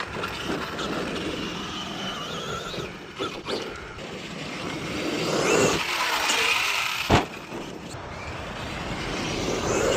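Arrma Outcast 8S 1/5-scale electric stunt truck running hard on maximum punch: its brushless motor whines up and down in pitch as it speeds up and backs off. Several sharp knocks, the loudest about seven seconds in, are the truck landing or hitting the ground.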